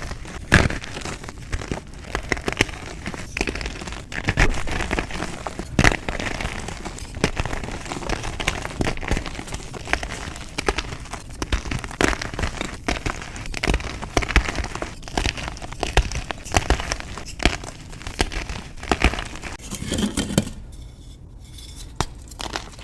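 Reformed gym chalk being crushed and crumbled, a dense run of irregular crackles and crunches, with a brief lull near the end.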